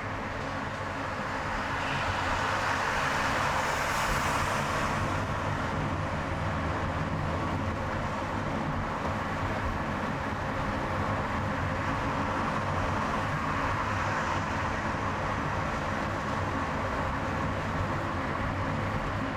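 Car driving on a highway: a steady engine hum under tyre and road noise. The noise swells for a few seconds near the start and again about two-thirds of the way through, as traffic goes by.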